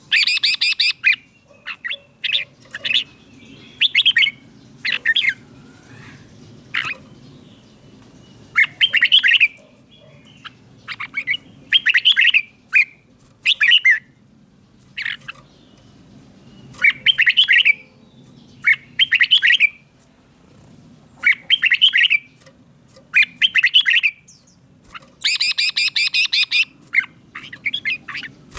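Red-whiskered bulbul singing: short, loud warbling phrases every second or two, with runs of rapid, harsh notes about a second in and again near the end.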